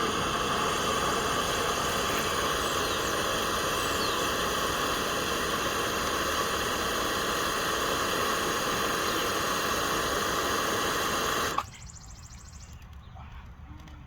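A gummy candy burning violently in a test tube of molten oxidizer, the 'screaming gummy bear' reaction. It gives a loud, steady hissing screech with ringing tones in it, which cuts off abruptly about eleven and a half seconds in.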